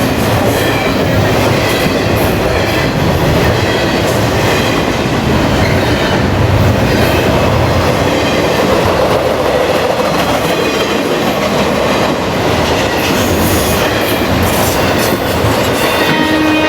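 Norfolk Southern double-stack intermodal freight train rolling past, with steady rumbling of the wheels on the rails and a faint high wheel squeal.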